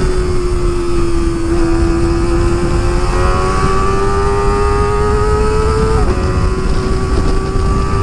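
Kawasaki ZX25R's 250 cc inline-four running through an Akrapovic exhaust while ridden: the engine note holds, climbs steadily as it pulls, then drops sharply about six seconds in as it shifts up a gear and carries on steady.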